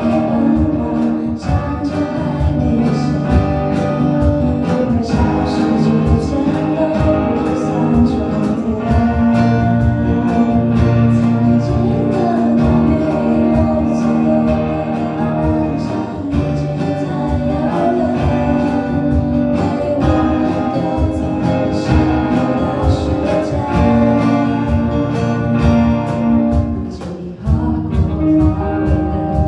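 A live band playing a pop-rock song, with guitar, drums and a sung vocal.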